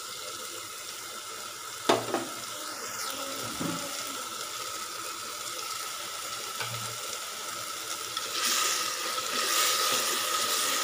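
Tomato-onion masala sizzling in an aluminium pressure cooker as curd is spooned in, with one sharp tap about two seconds in. From about eight seconds in it gets louder as the mix is stirred with a spatula.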